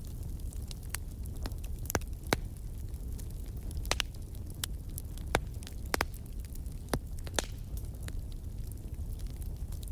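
Wood fire crackling: a steady low rumble of flames with irregular sharp pops and snaps, a few louder ones spread through.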